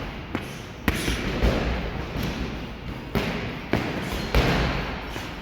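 Gloved punches landing in an irregular series of thuds, a few strikes spread over several seconds, over the general noise of a boxing gym.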